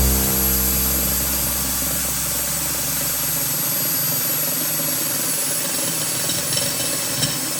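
Makita 8406 diamond core drill running steadily with a high motor whine over a steady noise, having just spun up; a low rumble underneath stops about three and a half seconds in.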